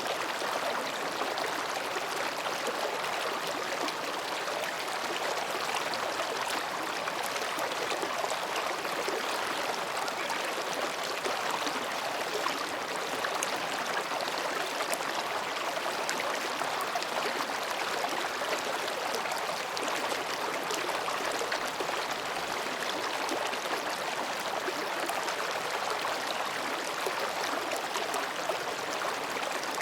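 Mountain stream babbling over and between rocks, a steady rushing and gurgling of water with no change in level.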